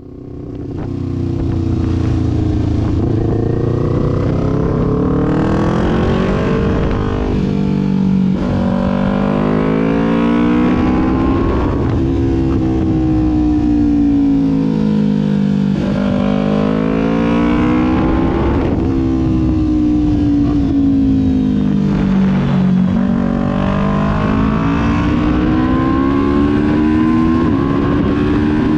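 Kawasaki Ninja 400's parallel-twin engine under way, its revs rising under throttle and falling back again several times over. The sound fades in during the first second.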